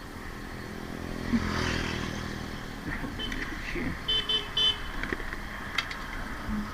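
Roadside traffic: a motor vehicle's engine passes close by, loudest a little over a second in, followed by a few short high-pitched beeps.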